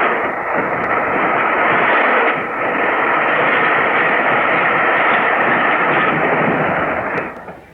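Flying Scotsman, an LNER class A3 steam locomotive, running at speed with its train: a loud, steady rushing noise of exhaust and wheels that stops suddenly near the end.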